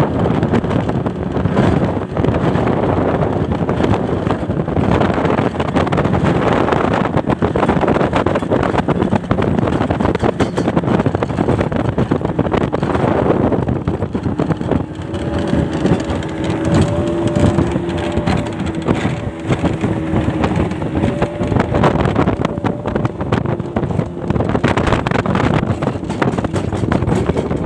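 A speedboat's 40 hp outboard motor running at speed, mixed with heavy wind on the microphone and water rushing past the hull. About halfway through, a steady engine tone stands out for roughly ten seconds.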